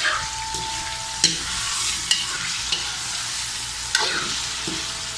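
Soy-marinated chicken liver frying in hot corn oil in a pan with a steady sizzle. A few sharp knocks of the stirring utensil against the pan come through it.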